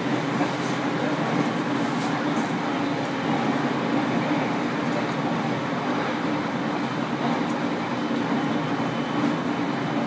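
Steady running noise of a JR Kyushu 815 series electric train under way, heard from inside its rear cab: a continuous rumble of wheels on rail.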